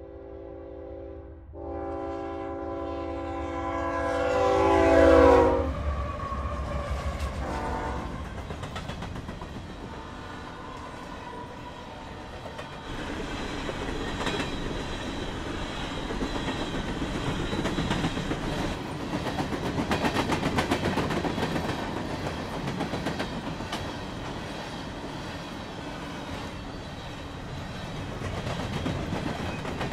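Freight train passing: the diesel locomotive's multi-tone air horn sounds, growing louder to a peak about five seconds in and dropping in pitch as the locomotive goes by, then the steady rumble and rhythmic wheel clatter of hopper cars rolling past on the rails.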